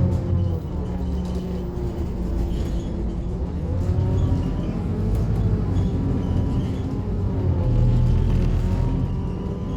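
Scania K280UB city bus's rear-mounted diesel engine under way, heard from on board: a low rumble whose engine note rises and falls several times as the bus accelerates and eases off.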